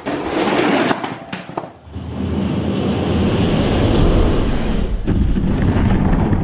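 Die-cast toy monster trucks racing down a track: a clatter with several sharp clacks, then from about two seconds in a steady rumbling noise.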